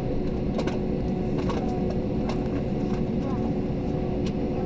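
Airliner cabin noise while taxiing: a steady low rumble with a constant hum from the running engines and cabin air, and a few light clicks and rattles.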